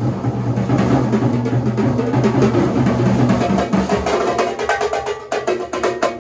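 Drum kit being played in a warm-up groove, with a fast run of strokes in the second half like a fill or roll.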